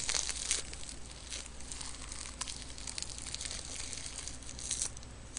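Close-miked chewing of crisp roasted seaweed (gim): brittle crackling and crunching, with a dense cluster of crackles at the start and another just before the end.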